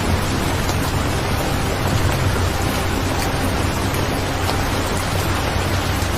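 Steady rain sound, a dense even hiss with a low rumble underneath.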